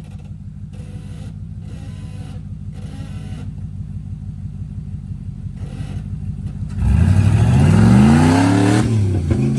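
Off-road rig's engine running steadily at low revs while crawling, then revved hard about seven seconds in, its pitch climbing for a couple of seconds as it pulls up over the rocks before easing off near the end.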